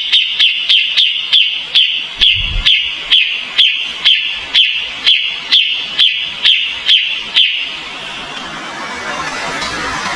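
Kapas tembak songbird repeating a short, sharp, descending call note over and over, fast at first and gradually slowing, then stopping about three-quarters of the way through. A steady hiss follows.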